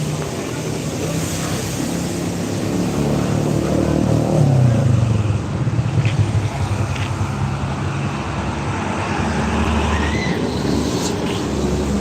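A motor vehicle engine running amid road noise, rising in pitch and getting louder about four seconds in, then settling back.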